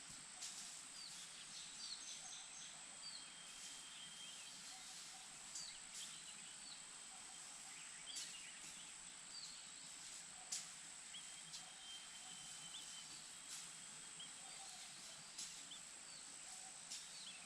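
Faint outdoor ambience: a steady high-pitched drone with many short, high bird chirps scattered through it and a few brief clicks.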